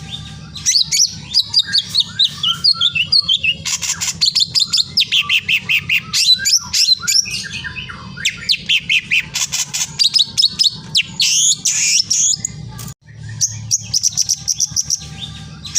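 Many small birds chirping and twittering in quick high trills, over a steady low hum. The sound cuts out briefly about 13 seconds in and then resumes.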